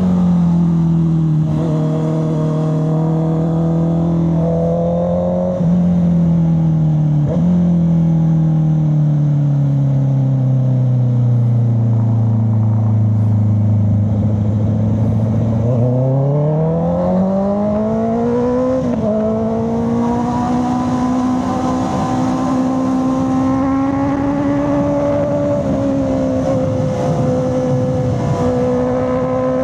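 Honda CB650R's inline-four engine under way. Its note sinks slowly as the revs fall over the first half, then climbs steeply as the bike accelerates about halfway through, with a brief step shortly after, and holds high and fairly steady to the end.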